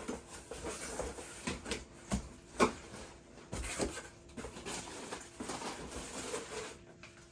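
A package being opened and its contents handled by hand: rustling with scattered clicks and knocks, and one sharper knock about two and a half seconds in.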